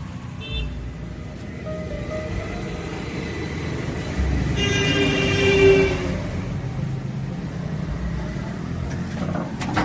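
Road traffic with a vehicle horn sounding once for about a second and a half, about halfway through, over a steady low rumble.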